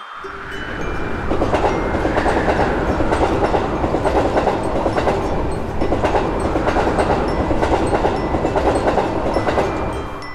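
Passenger train passing, its wheels clattering over the rail joints: it swells up over the first second or so, runs at full strength, and dies away near the end.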